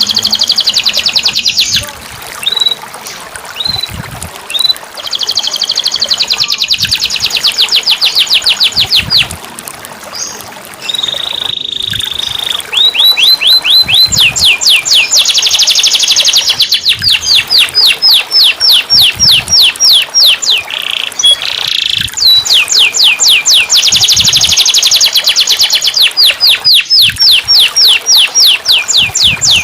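Domestic canary singing: long trills and fast runs of repeated notes, several a second, in phrases separated by short pauses. It is the kind of canary song recording played as 'therapy' to coax a canary that has stopped singing into song.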